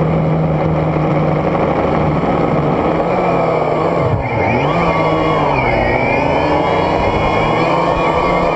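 DJI Phantom quadcopter's electric motors and propellers whining steadily, the pitch dipping sharply about four seconds in and then climbing back as the motors change speed.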